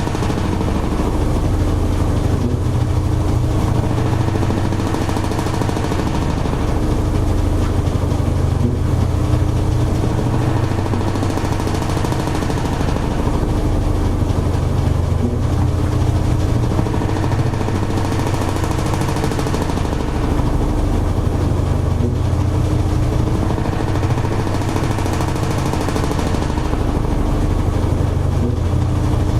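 Toshiba AW-42SEE4 fully automatic top-loading washing machine running mid-cycle: a steady motor hum under a hiss that swells and fades every six seconds or so.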